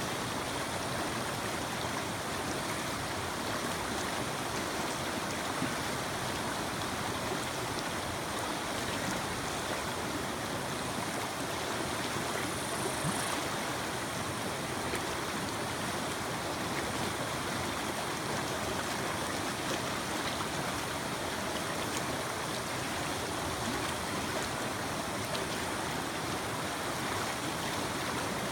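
Mountain creek running steadily, an even rush of water.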